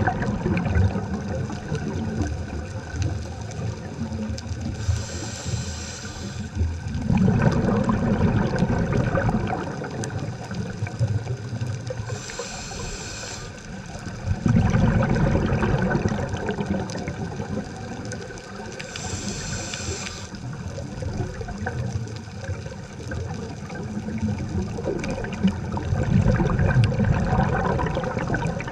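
Scuba diver breathing through a regulator underwater: three times a short hiss of inhaling through the regulator, each followed by the low rumbling gurgle of exhaled bubbles, about every seven seconds.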